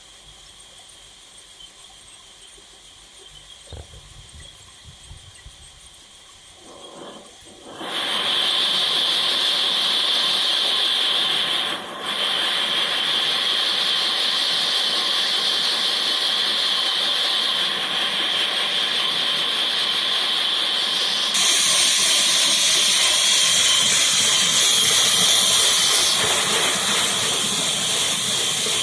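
Power saw starting up about eight seconds in and running with a steady high whine and hiss as it cuts wood; it dips briefly once and gets louder for a few seconds later on.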